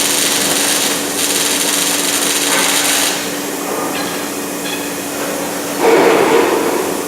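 Electric arc welding: a steady, dense crackling hiss for about three seconds that then stops, over a constant low machine hum. About six seconds in comes a louder, shorter rough burst.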